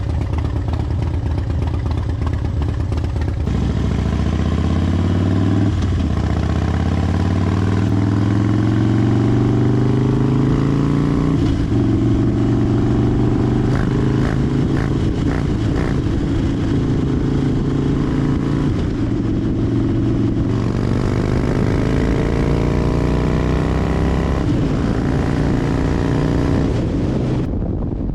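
Harley-Davidson Fat Bob's V-twin engine under way on the highway, with wind and road noise. It climbs in pitch through the gears from about four seconds in to about eleven seconds, settles, then rises again under throttle before easing off near the end.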